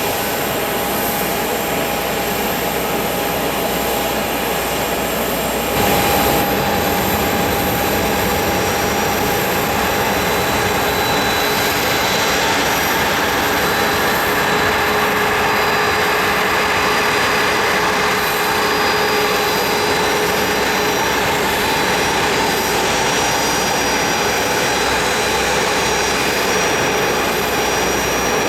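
Business jet's turbofan engines running steadily, a dense roar with a high whine; the sound steps up abruptly about six seconds in.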